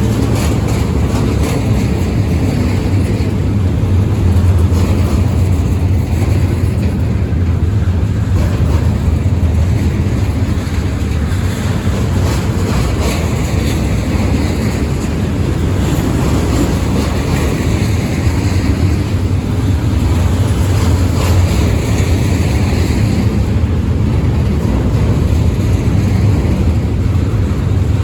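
Freight train running past: a steady, loud low rumble with scattered clicks from the wheels.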